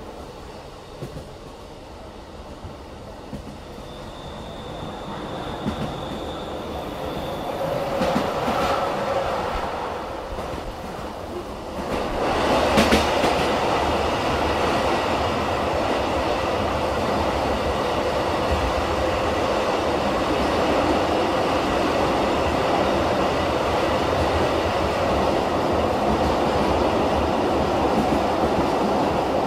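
Running sound heard inside a BLS train coach: wheels on rails, growing louder from a few seconds in, with a thin high whine for a few seconds. About twelve seconds in it jumps suddenly to a louder, steady rush that holds to the end.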